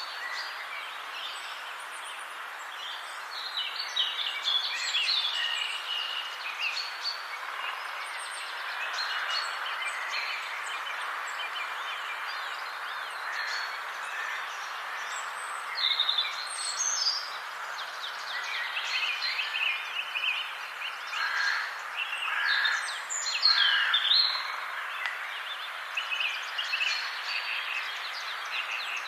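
Several wild birds singing and chirping in a forest, over a steady background hiss. The song comes in overlapping clusters of short, high notes, the loudest bunched in the later part.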